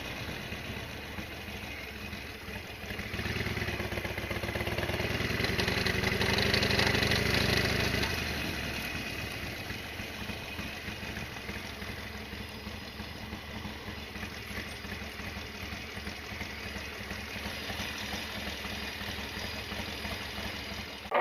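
Harley-Davidson XL1200R Sportster's 1200 cc V-twin engine running. It grows louder for a few seconds, eases off about eight seconds in, and then runs steadily.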